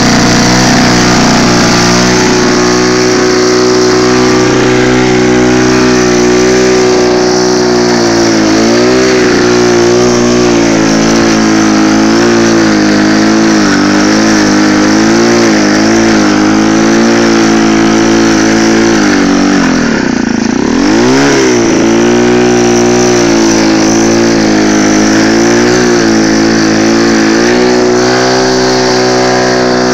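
AS Motor two-stroke engine on a Bernard lawn mower running at a steady speed, its pitch wavering a little. About twenty seconds in the engine speed drops sharply and climbs straight back up.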